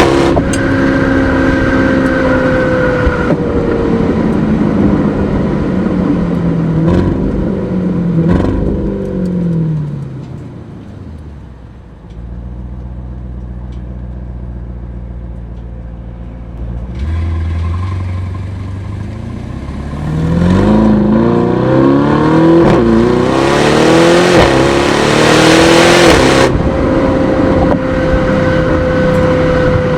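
Aston Martin DBX S's 4.0-litre twin-turbo V8 under way. Its pitch falls as the car slows about eight seconds in, and it runs low and steady for a few seconds. From about twenty seconds it rises hard under acceleration, then settles to a steady cruise near the end.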